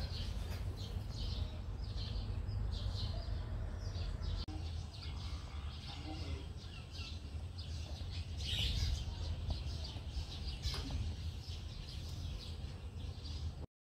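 Small birds chirping again and again in quick short notes over a steady low rumble; all of it cuts off abruptly just before the end.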